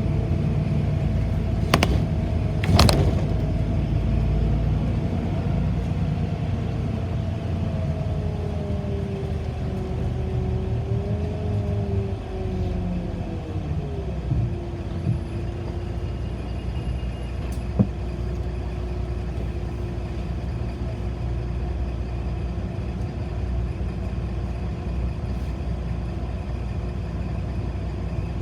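City bus heard from inside while riding: a steady low rumble of the drivetrain and road, with a whine that wavers and falls in pitch about halfway through as the bus slows. Two sharp knocks come a few seconds in and a single click comes later.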